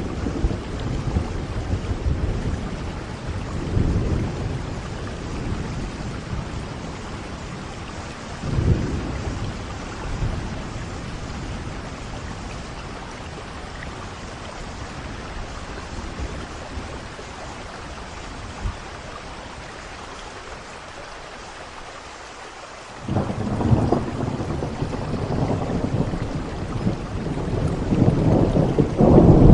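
Steady rain hiss with rolling thunder: a few low rumbles in the first third, then a loud thunderclap rolls in abruptly about three-quarters of the way through and keeps building.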